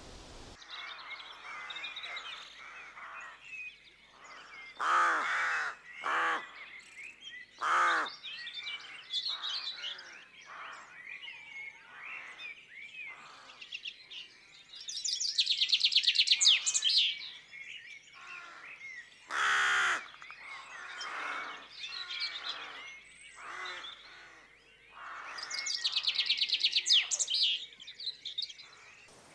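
Wild birds calling in the countryside: a mix of many short songbird calls, four loud harsh crow-like calls, and two long, fast trilled songs, one midway and one near the end.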